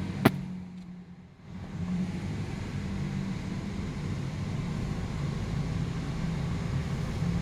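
Car engine running as the car drives and picks up speed in a parking garage, heard from inside the car. A single sharp click comes right at the start, the sound dips briefly about a second in, then the engine hum comes back and grows slowly louder.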